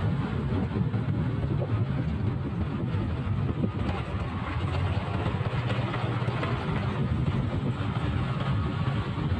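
Motorcycle engine running steadily on the move: a low, even hum under a steady rush of noise.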